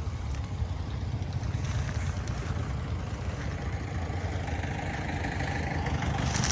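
Modified turbo tractor's diesel engine running steadily, its note rising slightly over the last couple of seconds.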